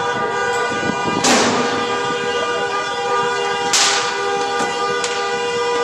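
A car horn sounding continuously on one steady pitch, with two sharp bangs, about a second in and near four seconds in.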